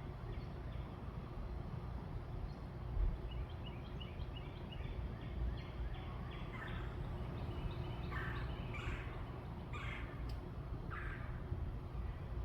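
Birds calling in a backyard: runs of short, quickly repeated chirps, then a few louder, harsher calls in the second half, over a steady low rumble.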